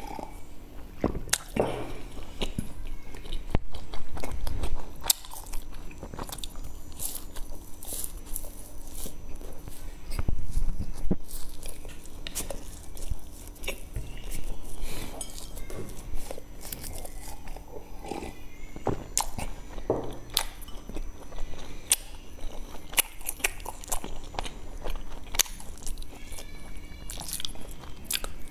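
Close-miked crunching and chewing of a crisp puffed grain bar: many sharp crackles as bites break it, with louder crunches about four and ten seconds in.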